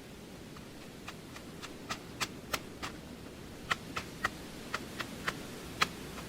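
About a dozen sharp snaps or clicks at irregular intervals over a steady low rush of background noise.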